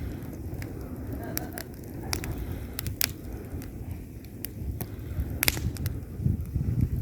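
Wood fire burning in a fireplace: a steady low rumble of flames with irregular sharp crackles and pops from the logs, a loud pop about three seconds in and another about five and a half seconds in.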